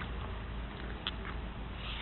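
Steady low background noise with a hum, and a couple of faint short clicks about a second in.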